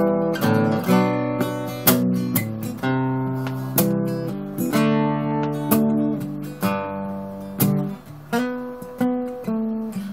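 Acoustic guitar strumming chords in an uneven rhythm, each strum ringing out and fading: the instrumental intro of a song, before the singing comes in.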